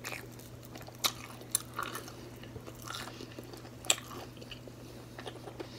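Close-miked chewing and biting of battered fried seafood, with a few sharp crunchy bites and wet mouth clicks, over a faint steady hum.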